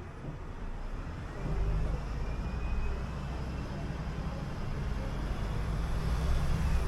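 City bus engine running steadily under way, getting louder about a second and a half in and again near the end as it pulls harder.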